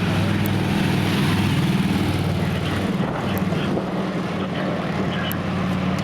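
Fire truck's diesel engine running with a steady low drone.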